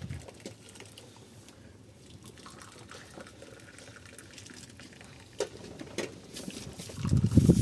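Faint trickling of water with a few small ticks and soft knocks, then a louder rushing noise building near the end.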